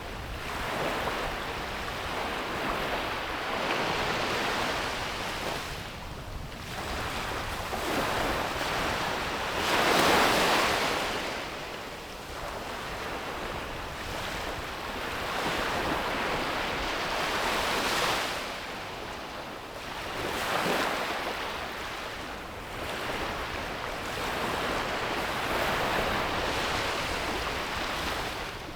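Sea waves breaking and washing up on a beach, the noise swelling and ebbing in surges a few seconds apart, with the biggest wave crashing about a third of the way in.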